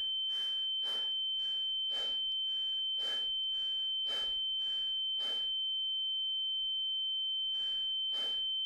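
A steady high-pitched electronic tone held throughout, over quick rhythmic hissing pulses about twice a second, like rapid breaths. The pulses stop about five and a half seconds in and come twice more near the end.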